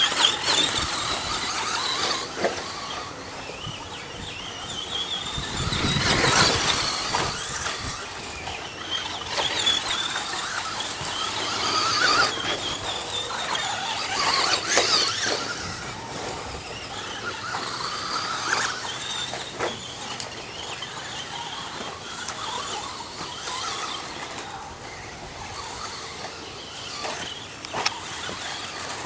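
Radio-controlled stadium trucks racing: high-pitched electric motor and gear whine that rises and falls as they accelerate and back off, with louder surges and knocks from jumps and bumps.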